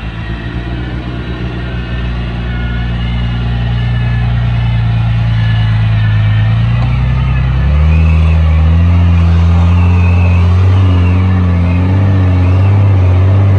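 A 4WD's engine running at high, held revs under load while the vehicle is winched up out of muddy water, growing louder as it climbs. About eight seconds in the engine note steps to a new, steadier pitch.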